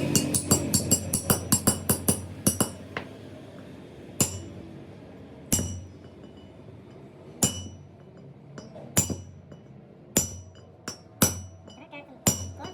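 Hammer striking metal: a quick run of ringing blows, about five a second, then single ringing blows every second or two.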